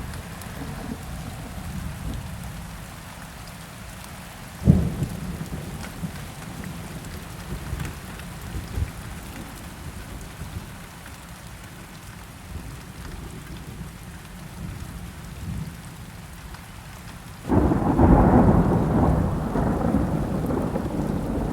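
Steady rain with thunder: a sharp crack about five seconds in, and near the end a loud roll of thunder that swells up and slowly fades.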